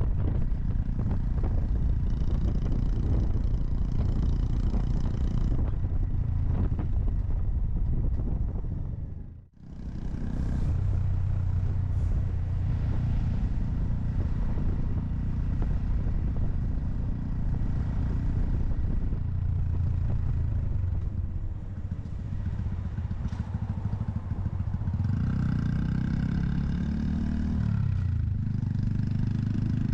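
Honda Monkey 125 single-cylinder motorcycle engine running on the move, under a steady low rumble. The sound drops away briefly about ten seconds in, then comes back.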